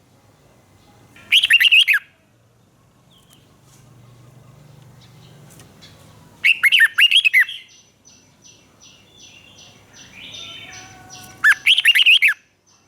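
Red-whiskered bulbul singing: three short, loud song phrases of quick rising and falling whistled notes, each about a second long and about five seconds apart.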